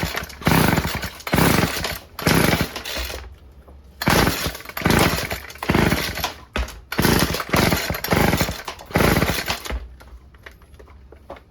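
Stihl FS36 string trimmer's recoil starter pulled over and over, roughly once a second, with a short pause about three and a half seconds in; the two-stroke engine turns over but does not fire, even with fuel poured into the carburetor.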